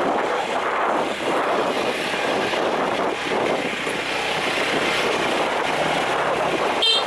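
Steady road and vehicle noise, with a short high horn toot at the very end.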